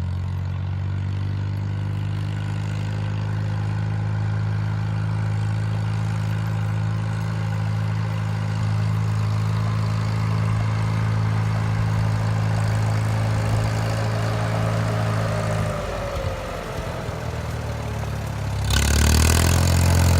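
Farmall M-series tractor's four-cylinder engine running steadily. About three-quarters of the way through its note drops away, and near the end it comes back louder.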